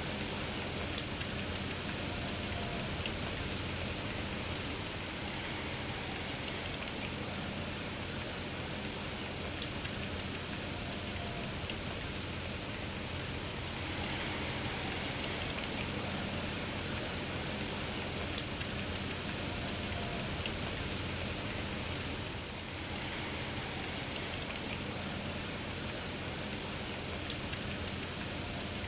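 Steady rain falling, an even hiss with no let-up. Four sharp ticks stand out, evenly spaced about nine seconds apart.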